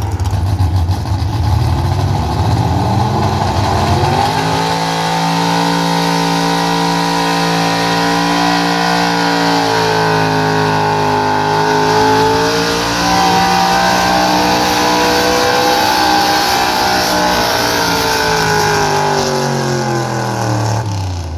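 Gas pickup truck engine at full throttle during a truck pull: the pitch climbs steadily over the first few seconds, holds high with small wavers under load, then drops away near the end as the driver lets off.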